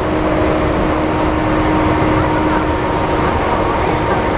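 Running noise inside a JR E235-1000 series electric train between stations: a steady rumble of wheels on the rails, with steady tones from the traction motors.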